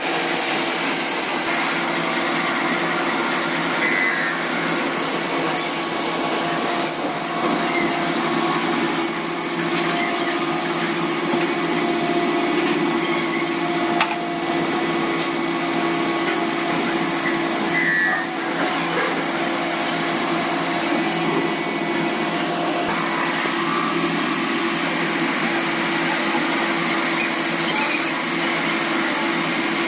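Steady whirring of running machinery, with a constant hum and one sharp click about halfway through.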